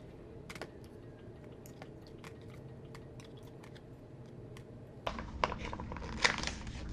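Plastic food packets being handled and opened: scattered small clicks and rustles, then louder crinkling and crackling from about five seconds in.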